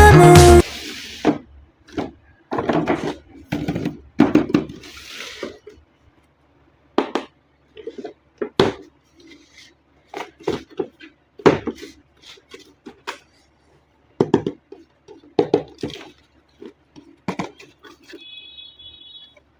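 Unboxing handling of toy RC car packaging: irregular clicks, taps and rustles. A short, steady high tone sounds near the end.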